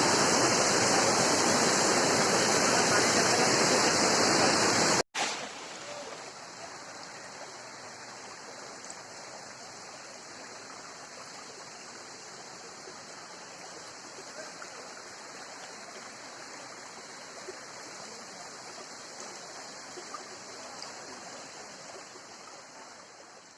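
Waterfall water rushing, loud and close at first. After a sudden cut about five seconds in, it goes on much quieter and fades out near the end.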